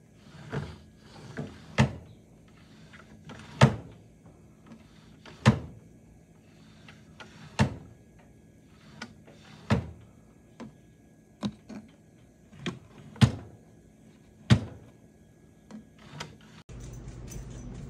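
A dozen or so short, sharp knocks and clicks at irregular intervals, a second or two apart, like household wooden furniture being handled.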